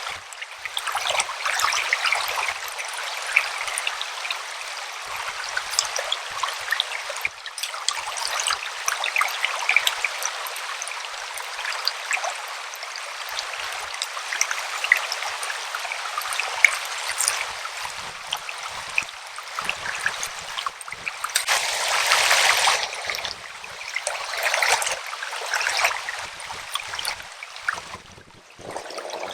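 River water flowing and babbling, with many small splashes. It swells louder a little past the middle and falls off near the end.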